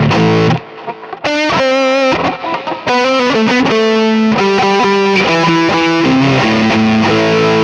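Electric guitar played through the Neural DSP Mesa Boogie Mark IIC+ amp-model plugin with a distorted tone: a chord, a short pause, then sustained single-note lead lines with wide vibrato, ending on a long held note.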